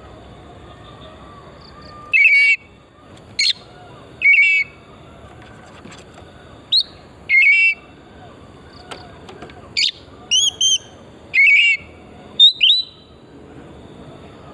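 Oriental magpie-robin (kacer) singing: loud, short whistled phrases, some sweeping upward, repeated every second or two with pauses between.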